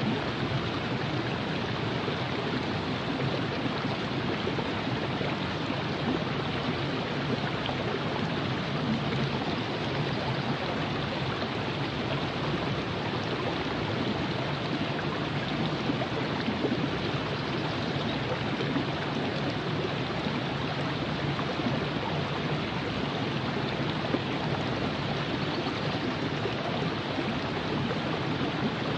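River water flowing, a steady, even rush of moving water with a faint gurgle.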